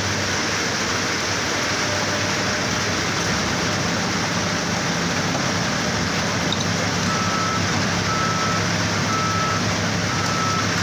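Steady loud noise of a vehicle running, with a low hum under it. From about two-thirds of the way in, a short high beep repeats about once a second.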